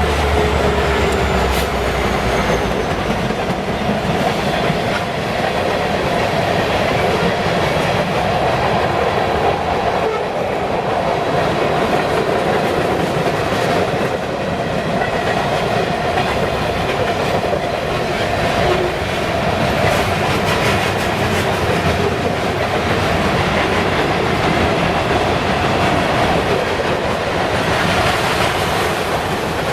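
Freight train's cars rolling steadily past with a continuous rumble and clickety-clack of wheels on the rails. A low locomotive drone fades out in the first few seconds.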